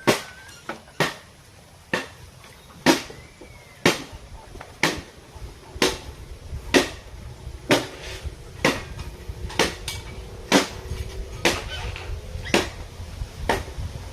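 Sharp knocks at a steady pace of about one a second, with a low rumble building up from about the middle.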